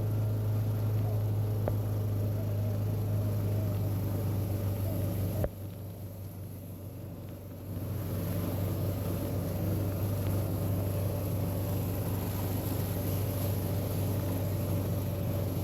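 Gator utility vehicle's engine running steadily, with a sudden drop in level for about two seconds partway through.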